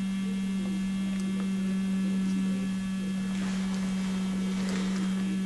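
Steady electrical hum: one constant low tone with a stack of fainter higher overtones. Faint rustling and small clicks come from about three to five seconds in.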